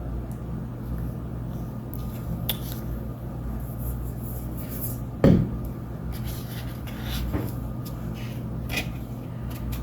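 Craft supplies handled on a tabletop: faint rustling and light taps over a steady low hum, with one sharp knock about five seconds in.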